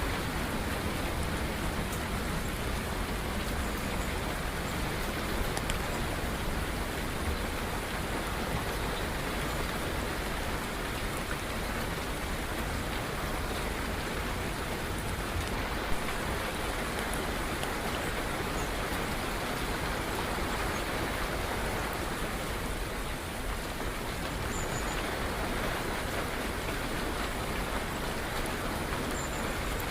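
Steady rain falling, an even hiss with no letup, with one sharp tap about halfway through.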